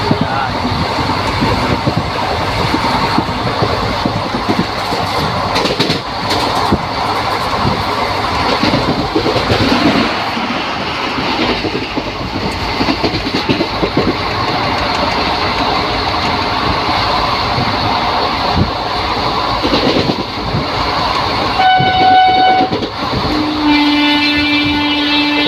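Steady rumble and rattle of a moving passenger train heard from on board, with wheels clacking over the rail joints. Near the end a train horn sounds twice, the second blast longer.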